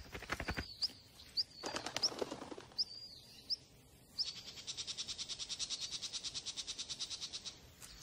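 Wild birds chirping: short, sharp, rising chirps repeat about every half second, then about halfway through a fast, even rattling trill of about a dozen pulses a second sets in and stops shortly before the end.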